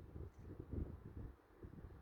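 Wind buffeting the microphone in uneven gusts that ease off over the two seconds, with a faint bird chirp about a third of a second in.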